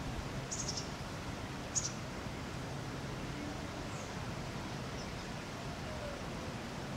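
A small bird gives a few short, high chirps over steady outdoor background noise. The clearest come in the first two seconds, with fainter ones later.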